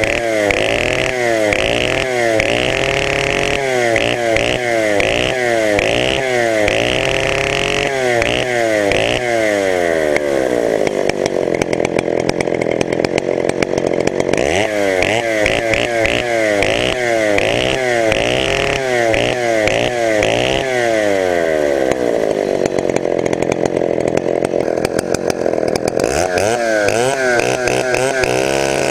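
Chinese-made copy of a Stihl 070, a big two-stroke chainsaw, running on its first startup and revved up and down again and again. It drops to a steady idle about two-thirds of the way through, then revs again near the end.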